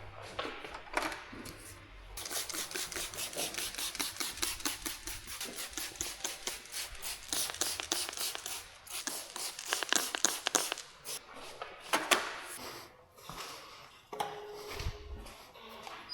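Brush scrubbing a surface in rapid, scratchy back-and-forth strokes, several a second, starting about two seconds in and stopping around eleven seconds, followed by a couple of sharper knocks.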